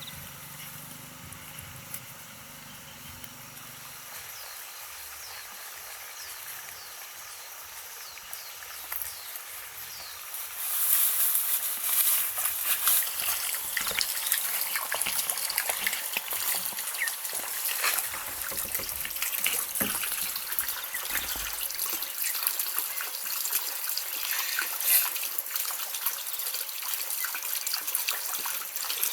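Water trickling and splashing, much louder from about ten seconds in, with faint high chirps in the quieter opening part.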